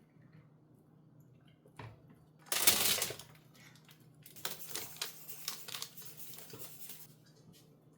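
Rustling and crinkling handling noises: a loud burst about two and a half seconds in, then a run of light, irregular crackles.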